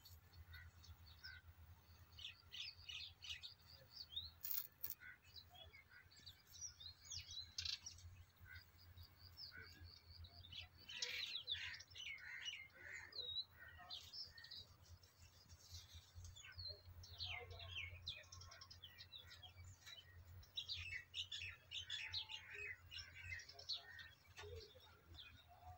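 Small birds chirping and twittering faintly in quick high-pitched clusters, over a steady low hum.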